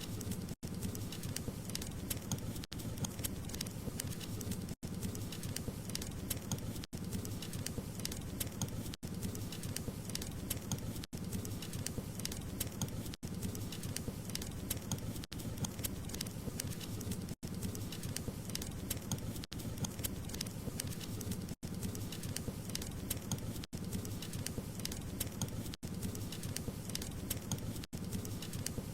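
Wood fire crackling steadily, a dense run of small pops and snaps over a low rushing hiss of flame. The sound drops out for an instant about every two seconds.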